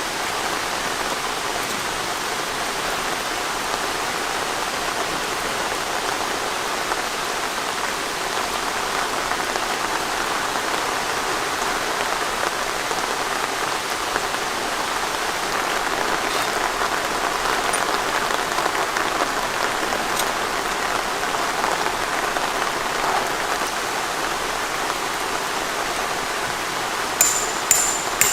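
Steady rain falling, an even hiss. Near the end, a quick run of sharp, high, ringing clicks starts, about two or three a second, and these are the loudest sounds.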